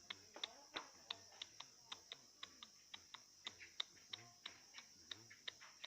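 Faint, sharp ticks about three to four a second from a caged bird hopping and landing on its perch and cage over and over, with a steady high hiss behind.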